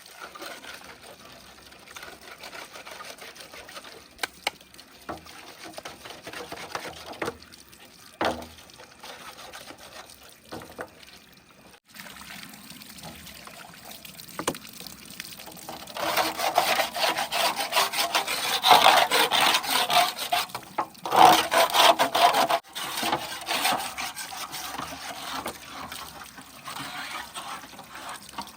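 Wet cement being worked with hand tools: rough scraping and sloshing with scattered knocks, growing louder about halfway through.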